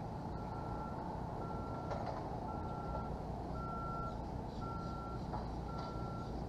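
A vehicle's reversing alarm beeping steadily, one high tone repeated about once a second, over a low steady background rumble.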